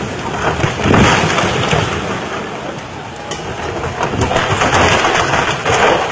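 Heavy rain and rushing floodwater making a steady, loud noise that swells about a second in and again later.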